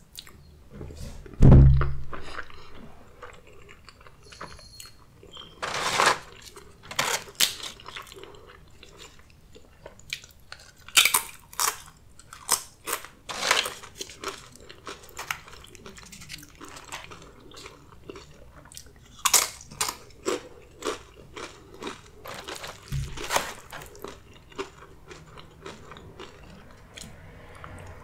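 Eating sounds: crunching bites of tortilla chips with salsa among wet chewing of saucy enchiladas, repeated sharp crunches through the middle. A dull low thump about a second and a half in is the loudest sound.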